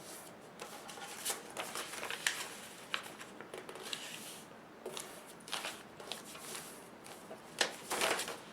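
A sheet of paper being handled and folded by hand: irregular short rustles and crisp crinkles of the paper, with a louder stretch of rustling near the end.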